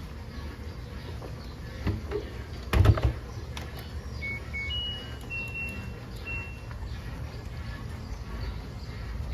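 A thump, then a row of electronic beeps from a washing machine's control panel: two short lower beeps, then three longer, higher ones, over a low rumble.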